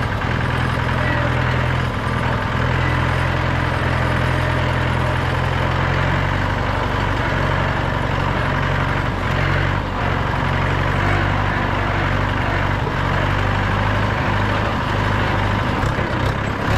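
Mahindra 475 DI tractor's four-cylinder diesel engine running steadily; its low note changes and turns less even about six seconds in.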